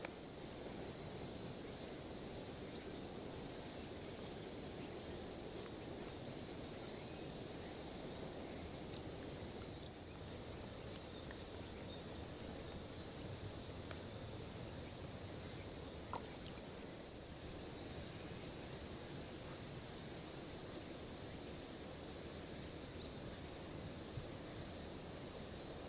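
Outdoor riverside ambience: a steady low rush of background noise with short, high insect chirps repeating every second or so and a few faint clicks.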